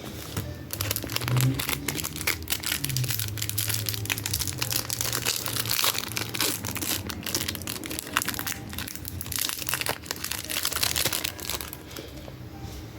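Plastic wrapping crinkling and tearing in the hands as a sealed pack of trading cards is opened, a dense run of quick crackles.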